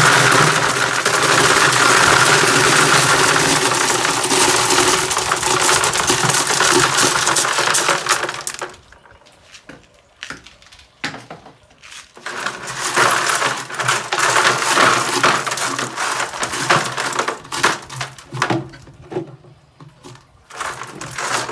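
Washed stones poured into a pond filter tank: a continuous clattering rush for about eight seconds, then after a short pause more stones clicking and clattering in scattered bits.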